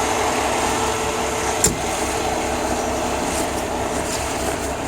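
Heavy logging truck's diesel engine running steadily close by, with a low even throb. A single sharp click about one and a half seconds in.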